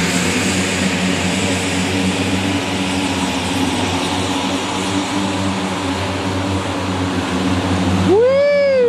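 Jacobsen HR9016 turbo diesel 4WD mower running steadily while mowing, a loud engine hum with a broad whooshing haze. Near the end a strong rising-then-falling tone cuts in over it.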